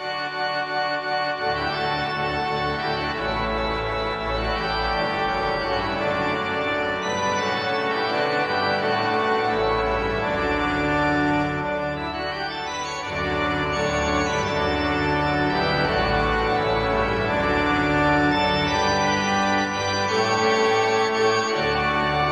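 Organ music: slow, sustained chords over deep bass notes that shift every few seconds.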